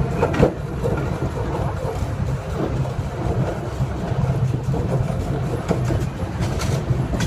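Miniature park train running along its track, heard from on board: a steady low rumble with occasional clicks from the wheels and rails.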